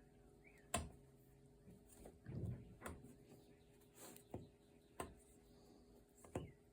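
Light, scattered clicks and taps with a brief soft rustle about two seconds in: a hook and loops being worked on the pegs of a potholder loom during a bind-off.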